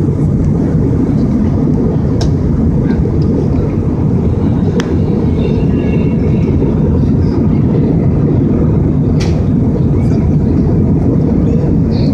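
Steady low rumble of an airliner cabin in flight, with a few sharp clicks or rattles at about two, five and nine seconds.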